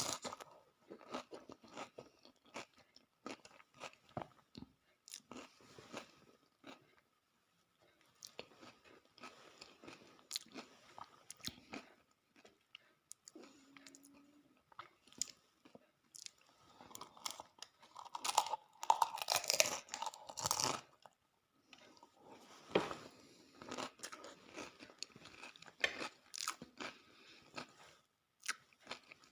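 A person eating dahi puri, crisp puri shells filled with yogurt, with irregular bites and crunching chews. There is a denser, louder stretch of crunching about two-thirds of the way through.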